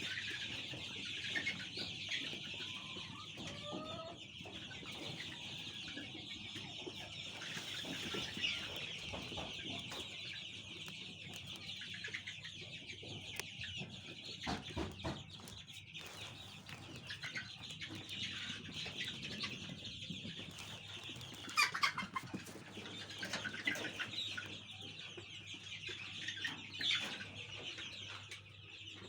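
A brood of Fayoumi chicks peeping continuously in a dense, high-pitched chorus, with a few louder sharp knocks about two-thirds of the way through.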